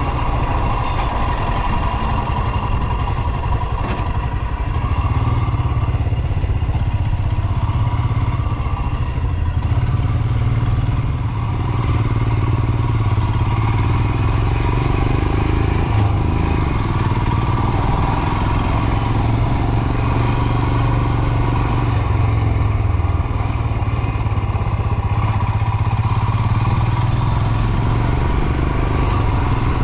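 Royal Enfield Himalayan's 411 cc single-cylinder engine running steadily as the motorcycle is ridden.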